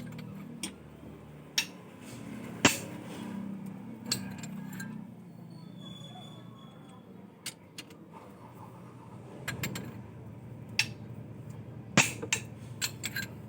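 Scattered sharp metal clinks and knocks at irregular intervals, from hand tools and engine parts being handled during disassembly.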